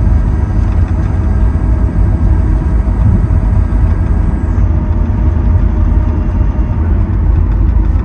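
Steady low rumble and whine inside the cabin of a Boeing 737 MAX 8 taxiing, its CFM LEAP-1B engines running at taxi power, with several faint steady whining tones above the rumble. A high whine bends down and fades out about halfway through.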